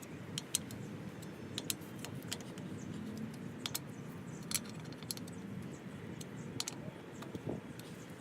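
Light, irregular metallic clicks and clinks of an Allen key on the bolts of a wheel adapter spacer on a truck hub, as the tightened bolts are double-checked.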